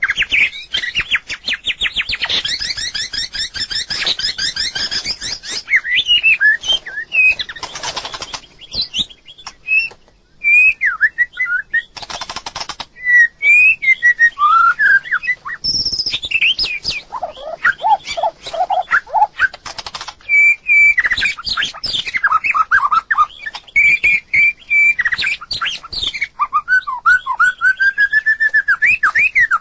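White-rumped shama singing a long, varied song of clear whistled notes and fast trills, with a few harsh, scratchy notes among them and short pauses between phrases.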